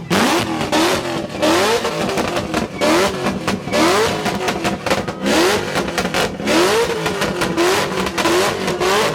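Modified car engine revved over and over, about once a second, its pitch climbing and falling back each time, with sharp cracks between the revs.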